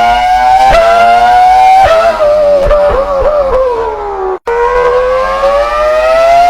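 A man imitating a car engine with his voice: one buzzing pitch held for about two seconds, then sliding down, breaking off sharply about four and a half seconds in, and climbing steadily again like an engine pulling through the next gear.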